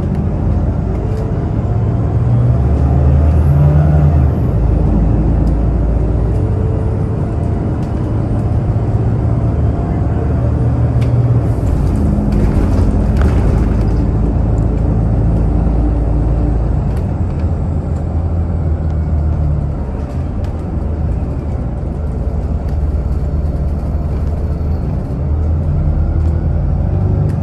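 Bus engine running as the bus drives, a steady low rumble whose pitch rises and falls as it changes speed.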